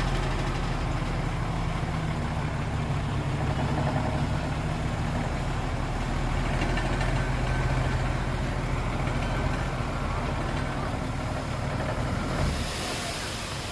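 Heavy diesel engine of earthmoving machinery running steadily, with a hiss starting near the end.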